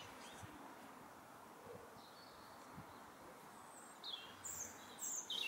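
Faint steady outdoor background noise, with a few short, high, downward-gliding bird chirps in the last second and a half.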